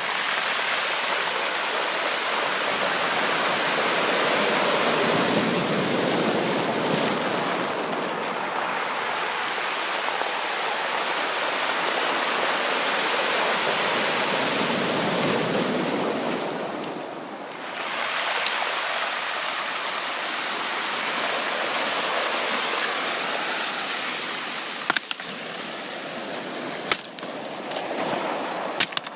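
Ocean waves washing onto a beach: a steady rush of surf that swells and eases in long surges, with a short lull about two-thirds of the way through. A few sharp ticks and crackles come near the end.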